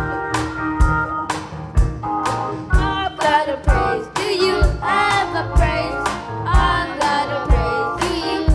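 Gospel church band playing held organ chords over a steady drum beat, about one hit a second. About three seconds in, a youth choir comes in singing.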